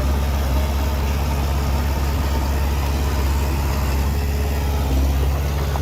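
Diesel engine of a heavy earthmoving machine running at a steady speed: an even, deep engine note under constant mechanical noise.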